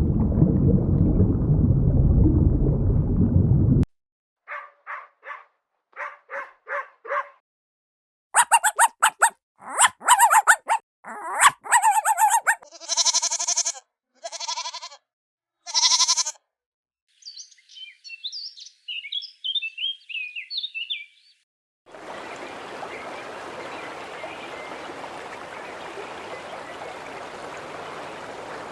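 A run of different animal calls in turn. First comes a loud low rumbling noise for about four seconds. Then short calls in quick groups, louder rapid pulsing cries, and high chirps follow, with a steady hiss-like background near the end.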